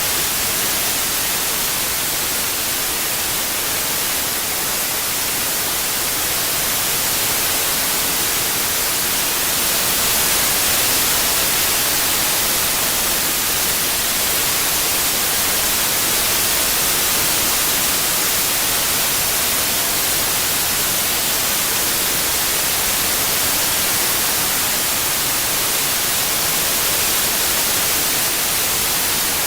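White noise: a steady, even hiss, brightest in the treble, swelling slightly about ten seconds in.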